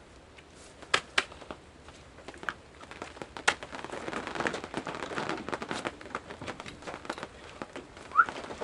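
Sharp clicks and knocks, then a few seconds of crackling, rushing hiss, as a gas burner is worked at soaked firewood to get it lit.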